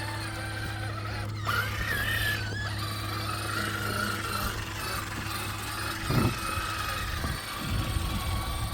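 Axial SCX6 Honcho 1/6-scale RC rock crawler's electric motor and geared drivetrain whining as it crawls, the pitch stepping up about a second and a half in and then wandering with the throttle, over a steady low hum. A few low knocks come about six seconds in and near the end.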